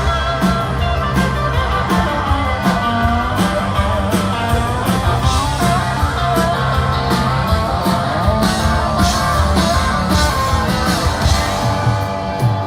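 A live rock band playing an instrumental break, with guitar over bass and a steady drum beat.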